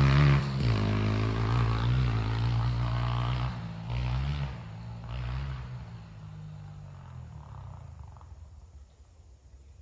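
Honda CRF125F dirt bike's single-cylinder four-stroke engine running under changing throttle, its pitch rising and falling. After a couple more throttle bursts about four and five seconds in, the sound fades away to a faint low rumble.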